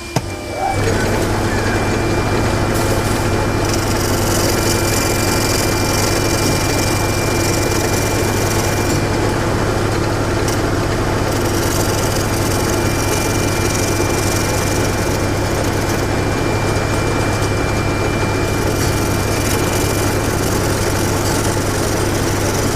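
Wood lathe running with a steady motor hum while a turning gouge takes light cuts on a mango-wood blank that does not yet run true. The hiss of the cut comes in a few seconds in, eases, and grows again near the end.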